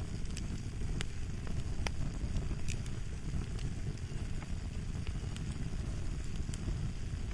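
Wood fire crackling: a steady low rumble with irregular sharp pops and snaps, about one or two a second.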